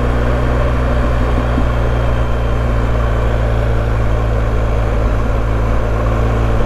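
BMW R1250GS boxer-twin motorcycle engine running at a steady road speed, its note holding constant.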